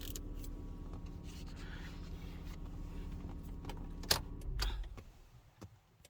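Car engine idling with a steady low hum, then switched off about four and a half seconds in, just after a sharp click; a thud follows.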